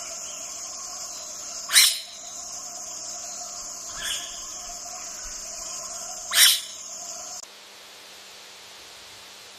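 A steady high-pitched insect drone, like crickets or cicadas, with short sharp calls standing out twice, the second about four and a half seconds after the first, and a fainter one between them. The drone cuts off suddenly, leaving a faint hiss.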